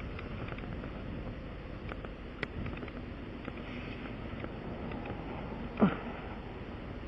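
Quiet hand-tool work on a tire during a puncture repair: faint clicks and handling noises, with one short sound falling sharply in pitch near the end.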